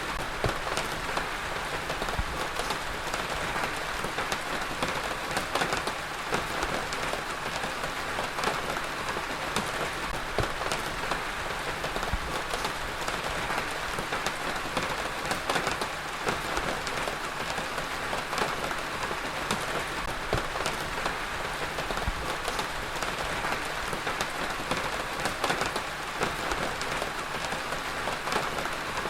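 Heavy rain falling steadily, a dense even hiss of water with many individual drop impacts ticking through it.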